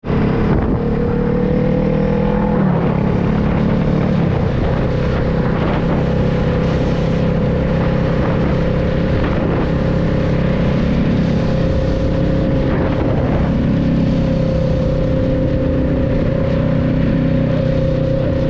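Honda Rebel 500's parallel-twin engine running under way on the road. Its note rises a little for the first couple of seconds, drops about two and a half seconds in, then holds steady at cruising speed.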